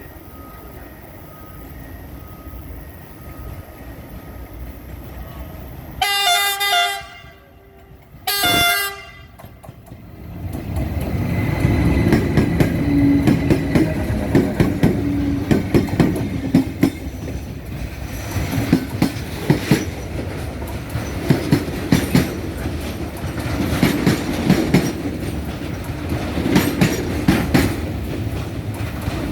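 A train sounds its horn in two short blasts, about six and eight seconds in. The train then passes close by, a long run of wagons with wheels clacking steadily over the rail joints under a continuous rumble.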